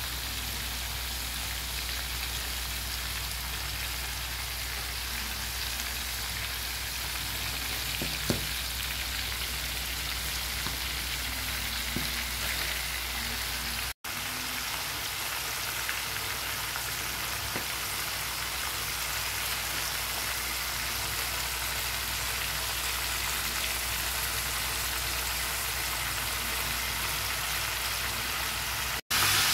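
Whole egg squid frying in a pan of hot oil over high heat: a steady sizzle of bubbling oil, with one sharp tick about eight seconds in. The sound cuts out for an instant about halfway through.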